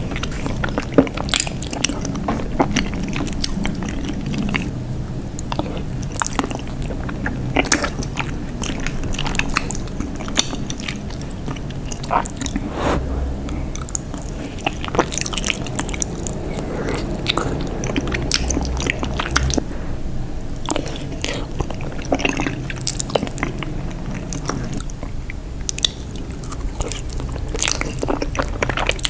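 Close-miked mukbang eating: a person biting and chewing cheese, with many short wet clicks and crunchy bites scattered throughout.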